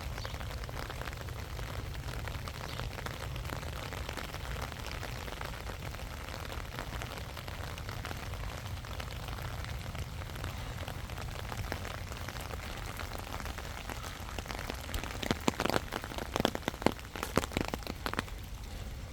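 Outdoor ambience while walking: a steady fine crackling rustle over a low rumble, then a cluster of sharp clicks and knocks about three-quarters of the way through.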